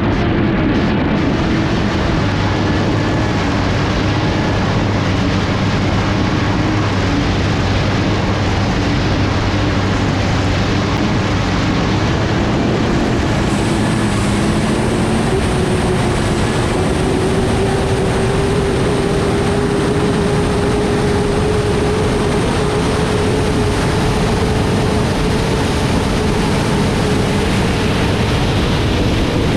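Turbine engine of an unlimited hydroplane running hard, heard from on board over a heavy rush of wind and water. A faint tone in the engine noise climbs slowly in pitch about halfway through, and a thin high whine comes in at the same time.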